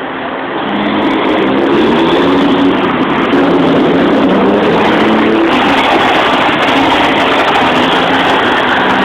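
Loud truck engine running as it drives past close by, its pitch wavering up and down; the sound grows louder about a second in.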